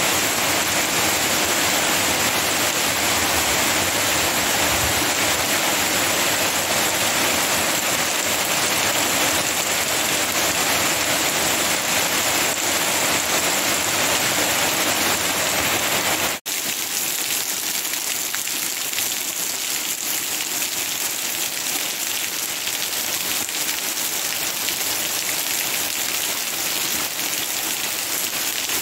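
Rain falling steadily on trees and leaves, an even hiss with no pauses. About halfway through it cuts out for an instant and comes back a little quieter.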